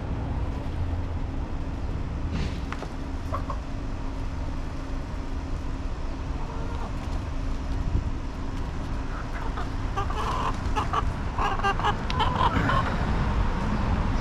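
Backyard chickens clucking in short bursts, busiest from about ten to thirteen seconds in, over a low steady rumble.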